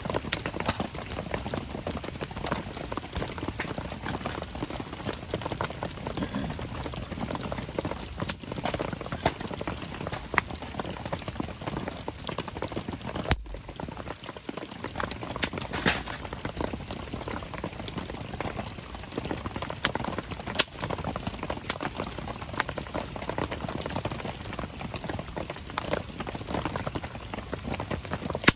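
Wood campfire crackling, with many small sharp snaps and one louder pop about halfway through, over the steady patter of rain.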